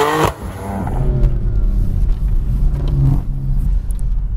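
BMW M4's twin-turbo inline-six under hard throttle, its pitch climbing and then cutting off sharply just after the start. The engine then runs on more quietly and climbs again briefly about three seconds in.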